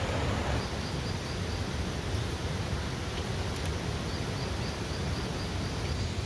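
Outdoor ambience: a steady rushing noise, with two faint runs of rapid high chirps from a small animal, about six a second, one near the start and a longer one in the second half.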